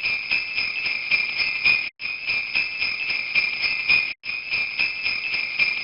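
Sleigh bells jingling in a steady shaking rhythm. The same roughly two-second jingle plays three times in a row, each time cutting off sharply with a brief gap.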